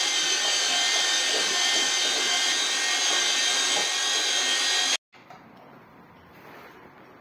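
A power tool running steadily with a high whine, stopping abruptly about five seconds in, after which only faint background noise remains.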